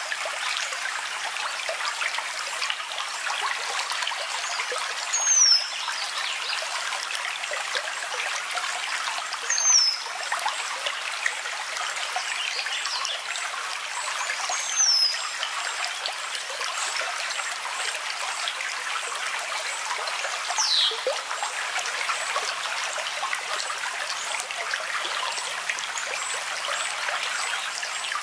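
Steady rush of a flowing stream. A short, high, falling chirp repeats three times, about every five seconds, and a longer falling whistle follows later.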